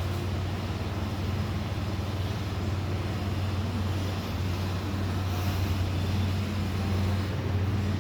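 Steady low hum under a constant rushing background noise, with no distinct events.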